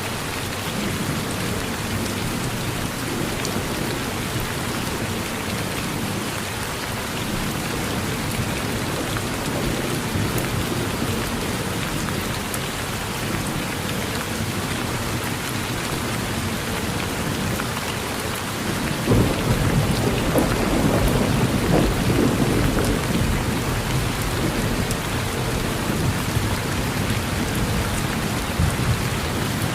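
Steady rain falling on a porch. About two-thirds of the way through, a long roll of thunder begins and rumbles on to near the end, louder than the rain.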